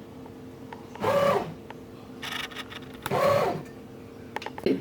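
Bread machine's kneading motor working the dough in short pulses: three whirring bursts about a second apart, each rising and falling in pitch, the middle one fainter, over a steady low hum.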